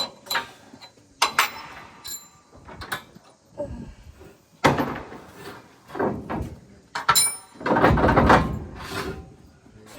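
Metal clanks and knocks from hand work on a combine harvester as parts and a cover are handled and bolted while the concaves are changed. There are several separate knocks, some ringing briefly, and a longer, louder rattling clatter about eight seconds in.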